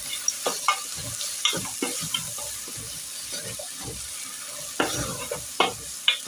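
Beef and spring onions sizzling in a pan while being stirred and turned, with a utensil scraping and knocking against the pan in irregular clicks.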